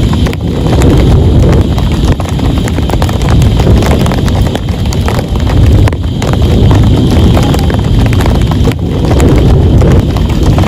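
Heavy rain falling on a tent: a dense, steady patter of drops over a low rumble, swelling and easing slightly.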